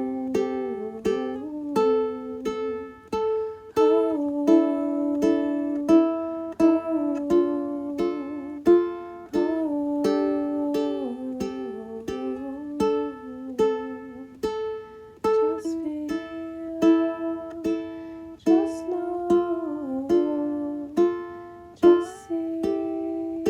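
Music: a string instrument strummed in a steady, even rhythm, with held notes and a melody line that slides between pitches above it.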